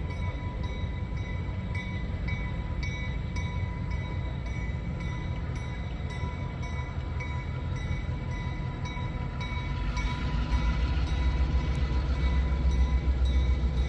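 Train running past, a low rumble with a few steady tones and a faint regular ticking; the rumble grows louder about ten seconds in as it comes closer.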